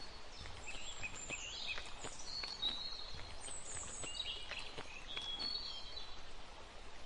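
Small birds chirping and whistling in short repeated phrases over a faint outdoor hiss, with soft scattered clicks underneath.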